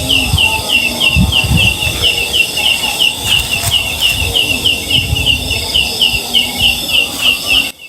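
Forest ambience: a high chirping call repeated about three times a second, with gusty low rumbling from wind or handling on the microphone. Both drop off suddenly near the end.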